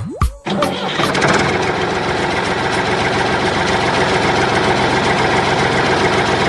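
An engine starting with a short rising whine, then running steadily with a fast, even chug.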